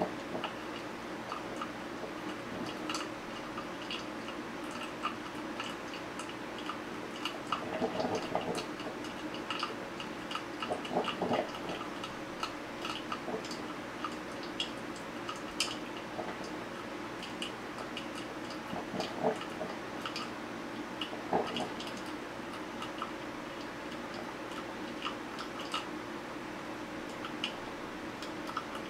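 Technivorm Moccamaster drip coffee maker brewing: a steady hum with irregular ticking as heated water goes up through its heater, and a few short gurgles.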